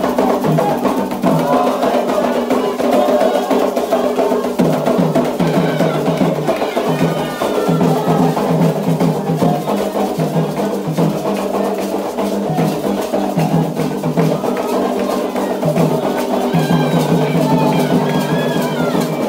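Candomblé ritual music: atabaque hand drums and a struck bell keep a steady rhythm while voices sing a chant.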